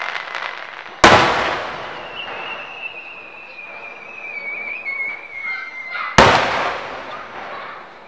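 Aerial fireworks shells bursting: two loud bangs about five seconds apart, the first about a second in, each followed by a long rolling echo. A thin high whistle that slowly falls in pitch sounds between them.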